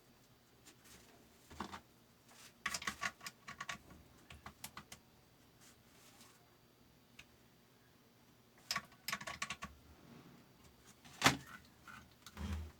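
Small metal parts and tools clicking and rattling as they are handled, in two short flurries, with one louder knock near the end.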